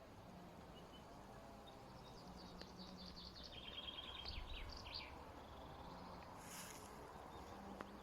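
Faint birdsong in a forest: a songbird gives a short phrase of rapid high chirps and a quick trill a couple of seconds in, over a quiet steady background.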